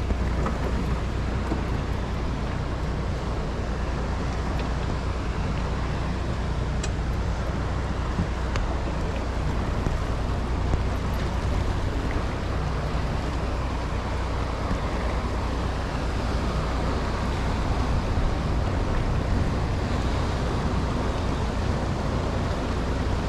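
Ocean waves crashing on a rocky shore, a steady wash of surf, over a constant low rumble.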